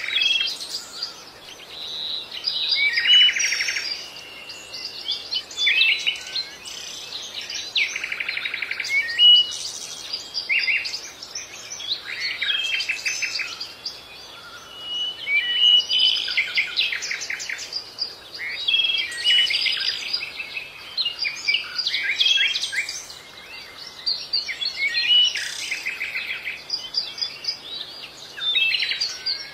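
Songbirds chirping and singing: bursts of quick, high chirps and trills, several birds overlapping, going on throughout.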